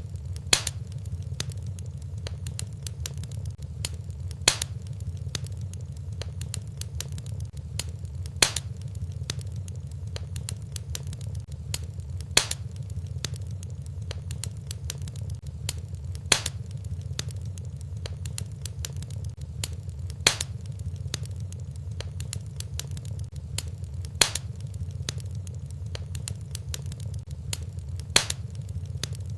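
Looped fireplace fire sound: wood fire crackling softly over a steady low rumble, with a sharp pop about every four seconds at an even, repeating spacing.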